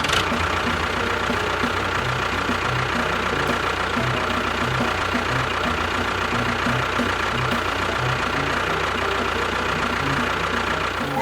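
A small motor running steadily with a thin whine, with a low, uneven pulsing underneath, typical of a DIY miniature tractor or bulldozer.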